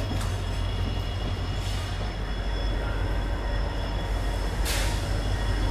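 Passenger train sound heard on board: a steady low rumble with faint steady high-pitched tones. Two short hisses come about 2 and 5 seconds in.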